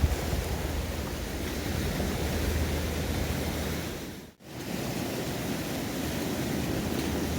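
Waves washing on the shore with a steady rumble of wind on the microphone; the sound drops out briefly about four seconds in, then resumes.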